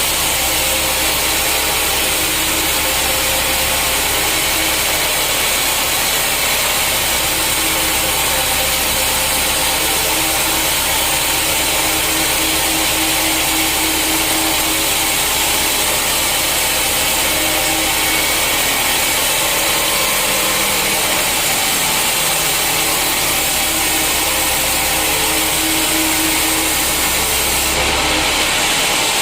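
Sawmill saw cutting through a teak stump, a loud, steady, high-pitched cutting noise over a low machine hum. Just before the end the hum drops away and the sound changes.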